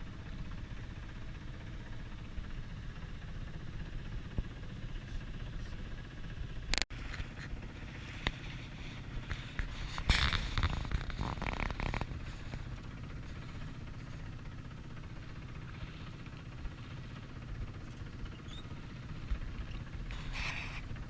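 A small sailboat's engine running steadily under way, a low hum, with a sharp click about seven seconds in and a burst of louder rushing noise about ten seconds in.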